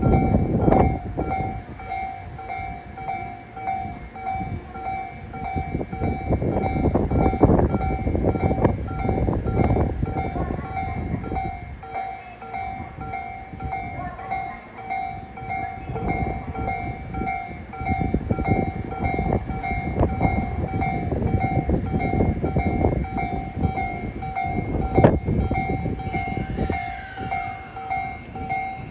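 A Tobu Urban Park Line train runs through the station with rolling wheel rumble that swells and fades in waves, and a sharp knock about 25 seconds in. A level-crossing warning bell rings continuously in even repeated pulses over it, and a falling high-pitched tone sweeps down near the end.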